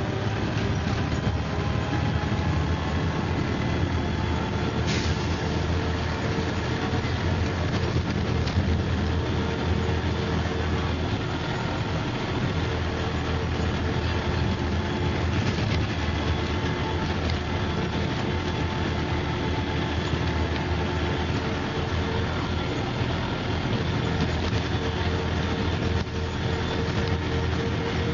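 MCW Metrobus double-decker running steadily under way, a deep engine rumble with a steady whine over it and a few light rattles and clicks.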